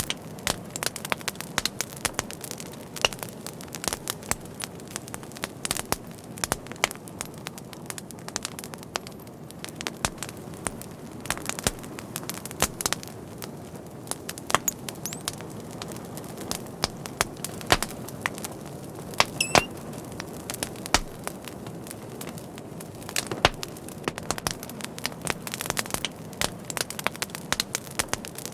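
Wood fire burning with a steady low rush and frequent irregular crackles and pops, a few sharper snaps standing out, and a brief high hiss about two-thirds of the way through, like steam escaping from a log.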